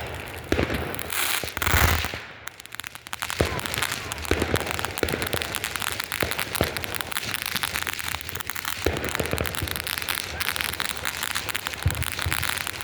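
Fireworks going off: a loud hissing rush about a second in, then steady rapid crackling with scattered louder pops.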